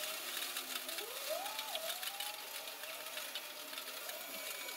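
Rain falling, an even hiss with scattered ticks of drops, under faint wavering tones that glide up and down.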